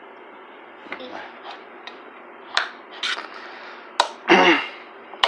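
Irregular sharp clicks and taps of tableware during a meal, about seven over four seconds, over a steady low room hum; a short voice sound comes near the end.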